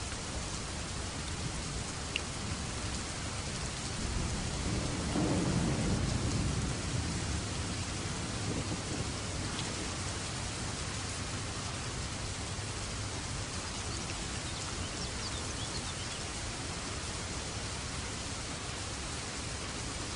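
Steady rain hissing, with a low roll of thunder that swells about four seconds in and fades away by about eight seconds.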